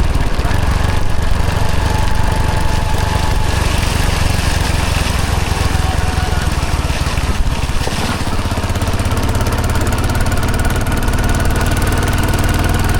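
Hero Honda CD100 motorcycle's small single-cylinder four-stroke engine running steadily, its note changing about eight seconds in.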